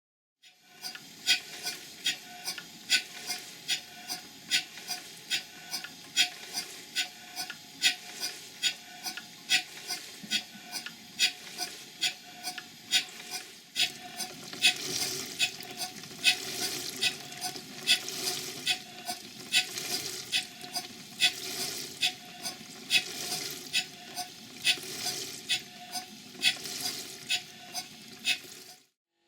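Large duplex steam boiler feed pump running and pumping water, its valve gear clacking sharply at an even rhythm of a little over one stroke a second over a steady hum and rush. The lower rushing grows louder about halfway through, and the pump stops just before the end.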